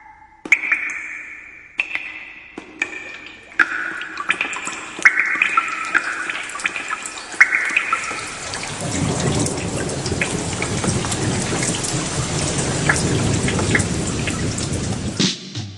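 Rain falling, building to a steady heavy downpour about halfway through, with scattered drips. A few soft ringing tones sound over it in the first half. The rain stops abruptly near the end.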